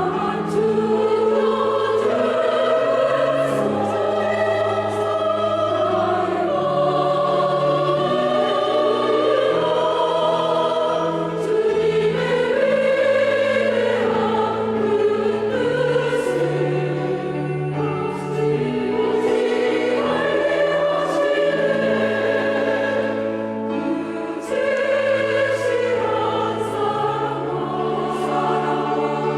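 Church choir singing a hymn anthem in parts, with sustained chords over a low accompaniment.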